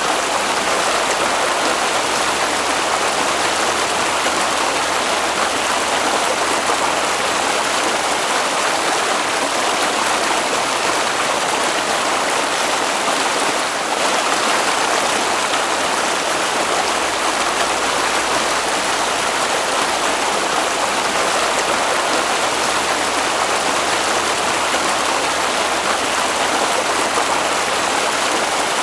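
Flowing water: a stream running with a steady, even rush.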